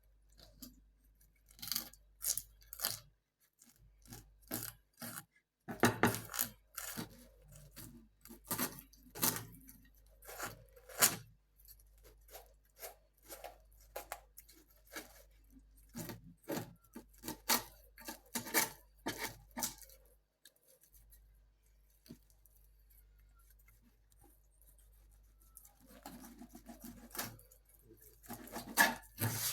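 Knife scraping and cutting in short, sharp, irregular strokes, about two or three a second, with a lull of several seconds about two-thirds through.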